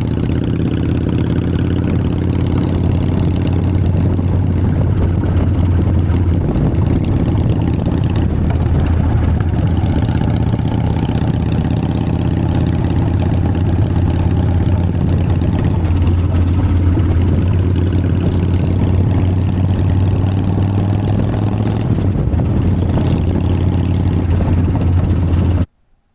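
Harley-Davidson Sportster's air-cooled V-twin engine running at a steady pitch. The sound cuts off abruptly near the end.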